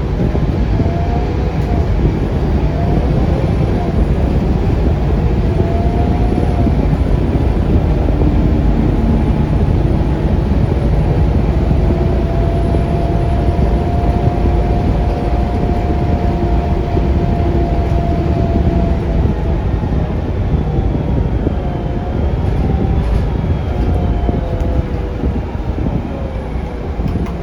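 Scania K360UA articulated city bus under way, heard from on board: a steady low rumble of its Scania DC9 engine and road noise, with a faint whine that rises and falls in pitch.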